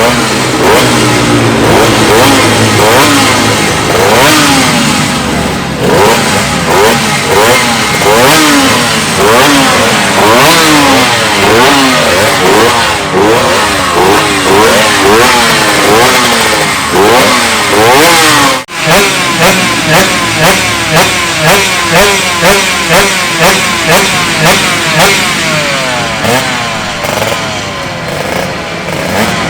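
Two-stroke racing motorcycle engines revved hard in quick blips, the pitch rising and falling over and over. After a brief break about two-thirds through, one engine is blipped in an even rhythm of nearly two revs a second.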